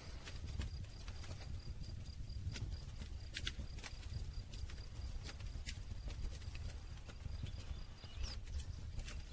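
Wood campfire crackling, with irregular sharp pops and snaps over a low steady rumble of the flames. A faint steady high-pitched tone runs underneath.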